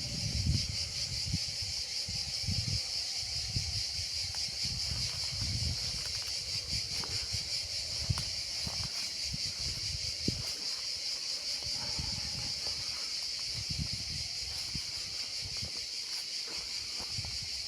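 Outdoor ambience: a steady high-pitched hiss or buzz, with irregular low wind rumbles on the microphone and a few faint clicks.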